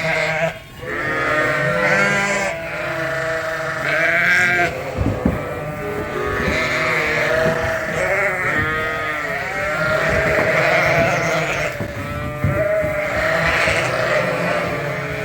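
Flock of Dorset ewes and lambs bleating continuously, many calls overlapping at once, with a few short knocks.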